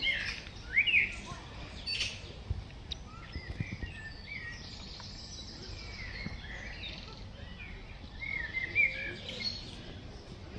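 Small birds chirping and singing, a run of short rising and falling notes, over steady outdoor background noise.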